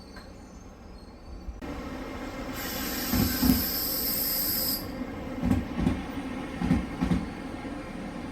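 Train wheels running on rails, knocking over rail joints in three pairs of clacks. A high hiss comes in for about two seconds partway through.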